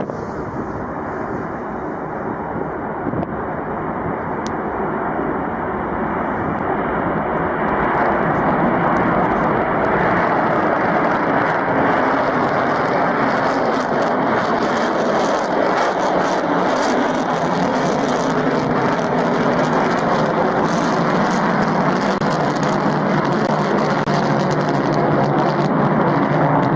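Aircraft engines running: a dense, steady noise that builds over the first eight seconds or so, then holds level.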